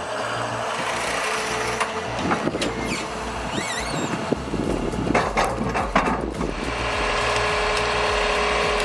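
The diesel engine of a John Deere 1110E forestry forwarder runs steadily. A few knocks come about five to six seconds in, and a steady whine joins near the end.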